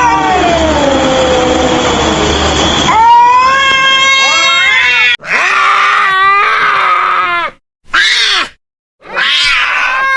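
A series of loud animal calls from several short clips joined one after another, each a pitched cry with harmonics that slides in pitch, with abrupt cuts and brief gaps between them.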